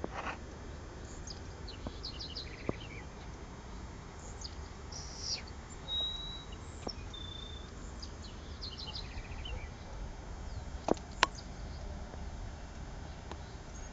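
Birds chirping in a few short, high runs, with two brief whistled notes, over a steady low rumble; two sharp clicks about eleven seconds in.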